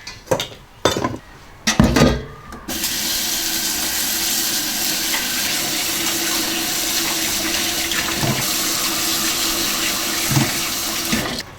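A few knocks and clatters of kitchenware, then a kitchen tap running steadily into a sink, shut off near the end.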